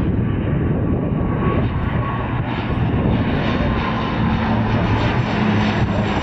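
Turboprop airliner's engines running loud and steady; a low steady hum joins in about halfway through.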